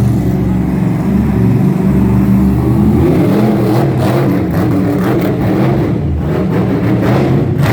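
Monster truck engine running loud, holding steady for the first few seconds, then revving unevenly.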